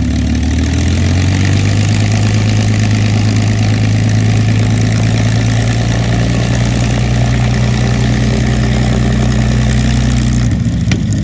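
Merlin V-12 piston aero engine of a P-51 Mustang running steadily, its pitch rising slightly about a second in and the sound changing shortly before the end.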